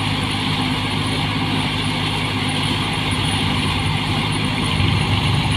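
New Holland 8060 combine harvester running steadily: an even engine drone with a haze of machinery noise over it.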